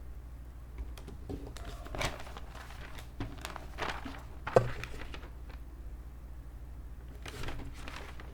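Scattered computer mouse clicks and desk handling rustles, the sharpest click about halfway through, over a steady low electrical hum.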